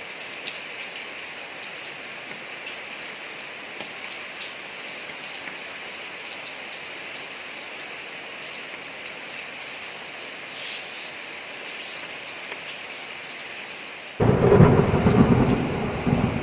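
Steady rain falling on a street, an even hiss with scattered drips. About two seconds before the end a sudden loud clap of thunder breaks in and rumbles on, the loudest sound here.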